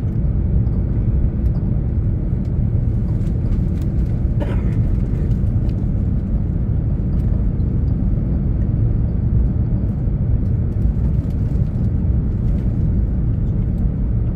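Steady low roar inside an Airbus A380's cabin in flight: the noise of its four Rolls-Royce Trent 900 engines and the airflow past the fuselage, heard from a window seat.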